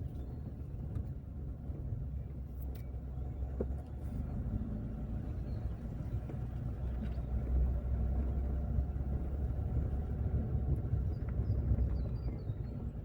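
A car driving along a road, a steady low rumble of engine and tyres with a few faint knocks.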